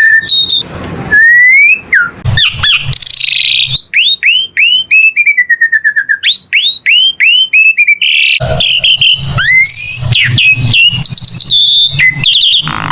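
Asian pied starling (jalak suren) singing: varied whistled notes, then a quick run of short downward-sliding notes, about three a second, followed by harsh, scratchy chatter mixed with whistles.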